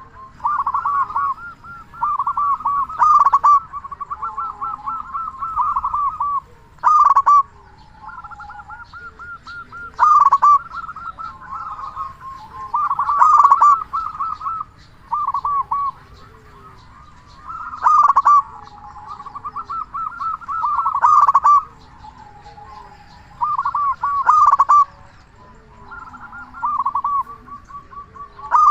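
Local zebra dove (perkutut) cooing: loud rolling coo phrases about every three to four seconds, with quieter rapid runs of coo notes in between.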